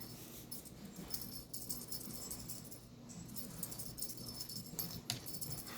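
Faint, irregular light jingling and rattling of a kitten's play toy as the kitten bats at it.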